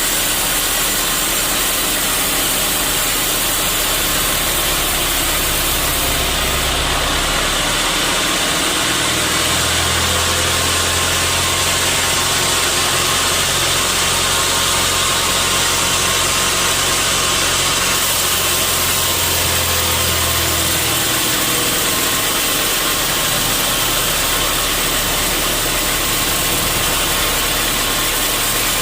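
Sawmill machinery running steadily with a loud, even noise. A deeper hum comes in about nine seconds in and drops away again about twenty-one seconds in.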